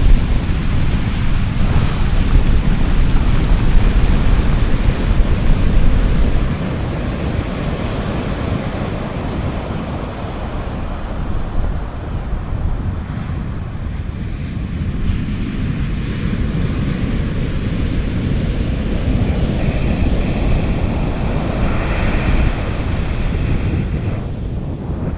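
Sea waves washing onto a beach, with wind buffeting the microphone as a low rumble. The surf is loudest in the first six seconds, then settles to a softer, steady wash.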